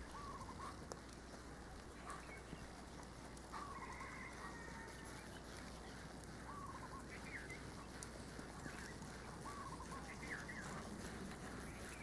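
Faint bird calls: short wavering calls that repeat every few seconds, over a steady low hiss.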